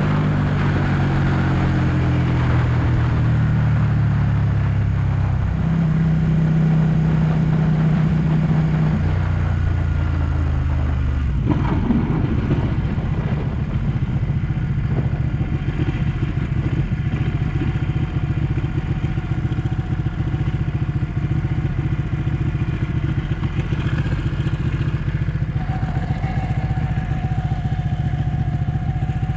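Ducati 1199 S Panigale's Superquadro V-twin engine slowing down, its pitch falling over the first ten seconds or so, then settling into a steady, lumpy idle about eleven seconds in.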